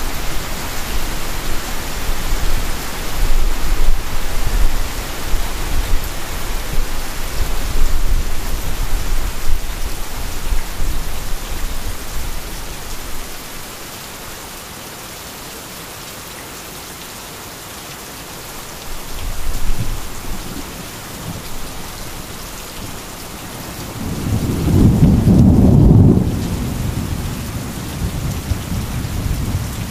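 Heavy rain falling steadily, with thunder: a low rumble for the first ten seconds or so that dies away, a short roll a little before the 20-second mark, and a loud clap of thunder rumbling for a few seconds near the end.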